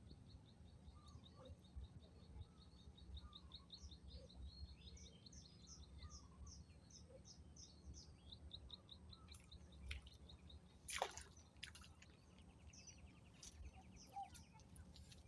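Faint small-bird calls: long rapid runs of short high chirps, with one louder call falling in pitch about eleven seconds in, over a low wind rumble.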